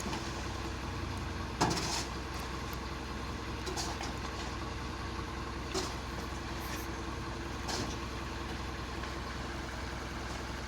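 Truck engine idling steadily, with a few short sharp knocks over it, the loudest about one and a half seconds in.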